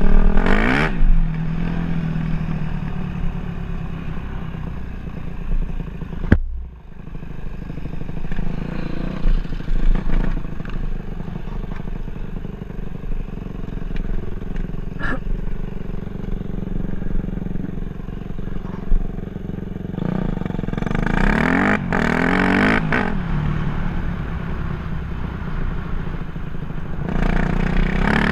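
Dirt bike engine running throughout, revving up and dropping back in pitch several times: at the start, about three-quarters of the way through, and again at the end. A single sharp click comes about a quarter of the way in.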